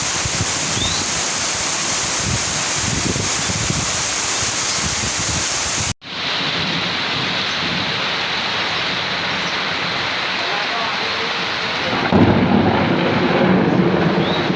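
Heavy rain with thunder rumbling. About six seconds in, the sound cuts out for an instant and comes back with a duller rain; a louder roll of thunder starts near the end.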